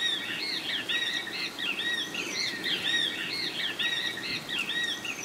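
Several birds calling at once, a dense, continuous run of short arched chirps that overlap one another.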